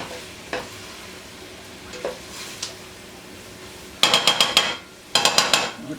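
Onions and mushrooms sizzling in butter in a pot as they are stirred. About four seconds in come two short runs of quick metallic clatter, the spoon knocking against the pot, each lasting under a second.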